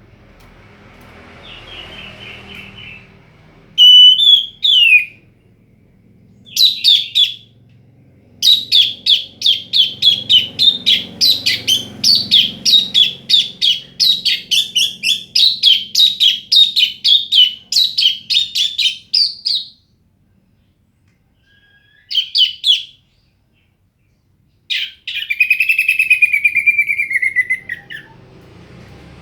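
Orange-headed thrush (anis merah) singing in separate bursts: a few short phrases, then a fast run of repeated notes at about four a second lasting some ten seconds, and later a falling whistled phrase. This is a lure song used to provoke rival males into singing.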